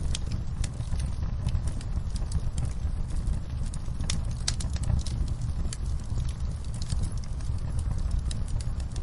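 Campfire burning: frequent, irregular sharp crackles and pops from the burning wood over a steady low rumble of the flames.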